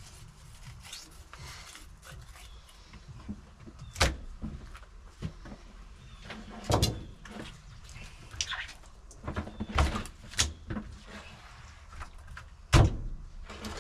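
Irregular sharp knocks and clicks from handling and cleaning fish, spaced a few seconds apart. The loudest comes near the end, with others about four, seven and ten seconds in.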